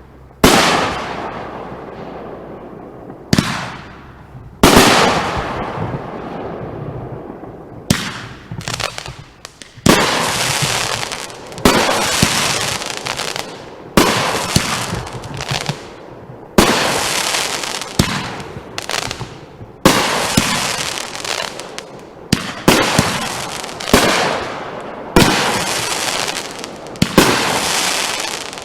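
Consumer aerial fireworks going off: a string of loud bursts, at first a few seconds apart, then about one every second and a half from about a third of the way in, each bang fading off before the next.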